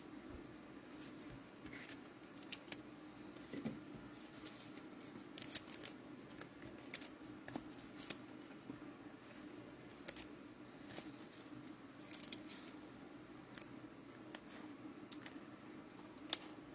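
Faint, scattered clicks and soft rustles of trading cards and their plastic packaging being handled, over a steady low hum.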